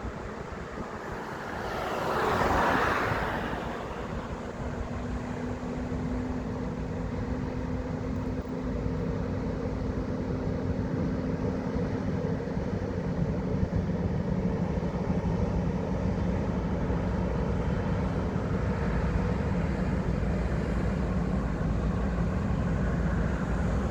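A vehicle passes close by, swelling and fading about two seconds in. Then a low, steady rumble with a faint hum slowly builds and holds.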